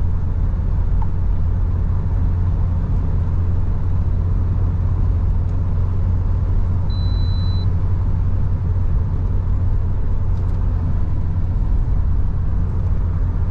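Mahindra Bolero running at a steady cruise of about 80 km/h, heard from inside the cabin: a constant low engine drone with road noise. One short high beep sounds about seven seconds in.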